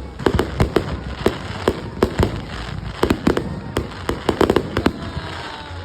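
Fireworks going off in a rapid, irregular string of sharp bangs and pops, several a second, with a faint falling whistle near the end.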